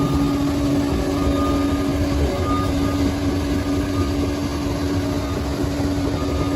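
Bulldozer's diesel engine running steadily: a constant droning tone over a low rumble.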